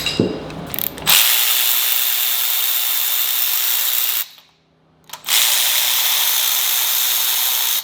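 Handheld power tool running in two long, steady bursts, the first starting about a second in and lasting about three seconds, then a brief stop and a second run of about two and a half seconds: backing spark plugs out of the engine.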